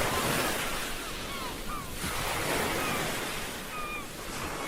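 Ocean waves washing ashore in a steady rush, swelling at the start and again about halfway through. Several short gliding calls, likely birds, sound over the surf.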